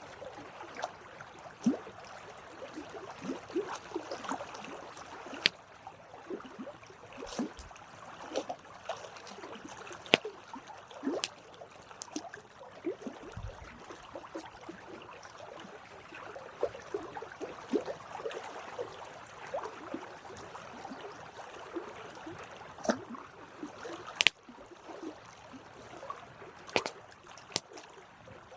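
Campfire burning with a steady crackle and sharp pops at irregular intervals; one of the loudest snaps comes about 24 seconds in.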